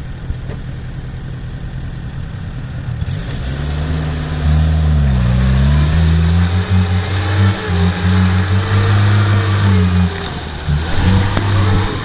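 Lada Niva's engine revving hard under load as it is towed and driven through deep mud. The pitch dips and rises at first, then holds steady and loud, eases off briefly near the end and picks up again.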